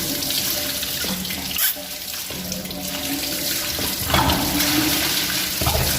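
Water gushing steadily out of a booster pump's pressure tank as it is drained to replace the torn bladder inside. A single sharp knock a little under two seconds in.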